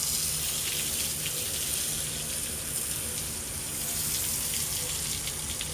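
Water spraying steadily from a garden hose onto a horse's coat as it is bathed and cooled down.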